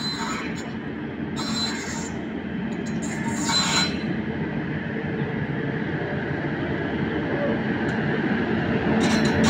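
Indian Railways WAP-5 electric locomotive and its passenger train approaching along the track, the rumble growing steadily louder. Brief high-pitched sounds cut in a few times in the first four seconds and again near the end.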